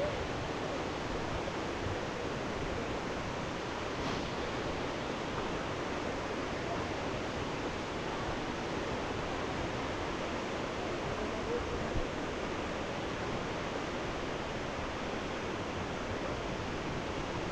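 Steady rushing of whitewater river rapids, an even noise without pitch, with a couple of faint knocks about four and twelve seconds in.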